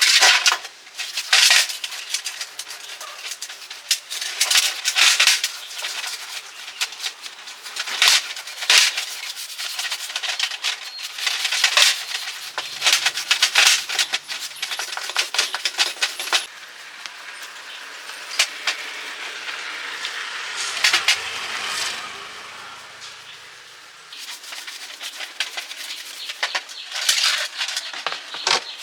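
Hand tools and metal parts clinking and knocking irregularly during workshop repair work, with a stretch of steadier rubbing noise about two-thirds of the way through.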